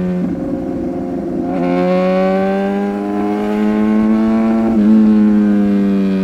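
Superbike's inline-four engine under way. Its pitch sags, with a rough stretch for about a second near the start, then rises steadily for about three seconds as it accelerates. A brief blip near five seconds in is followed by a slow easing off.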